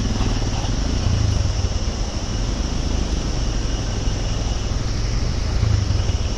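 A vehicle engine running steadily under a continuous rush of river water, with a low hum beneath a wide hiss.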